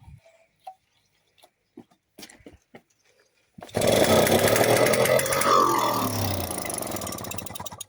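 Atco Midget 98cc two-stroke engine firing on its first start: after a few faint clicks it bursts into running about three and a half seconds in, runs loudly for about four seconds, then drops in pitch and dies away near the end.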